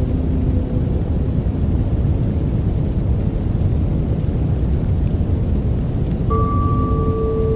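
Steady rain ambience with a deep, thunder-like rumble, used as a white-noise bed. About six seconds in, a soft, steady bell-like tone starts and keeps ringing.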